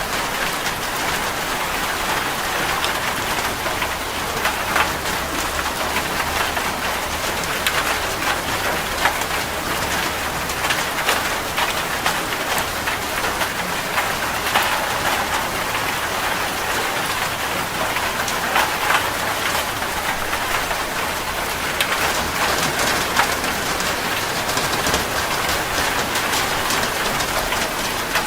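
Steady rain falling and pattering on a surface, with many individual drops tapping throughout.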